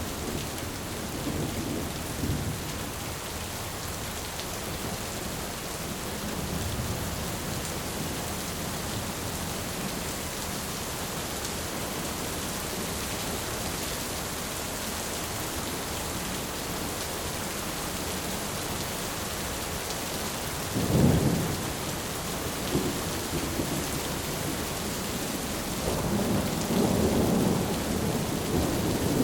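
Thunderstorm: steady heavy rain hissing, with a sharp thunderclap about two-thirds of the way through and a longer roll of thunder near the end.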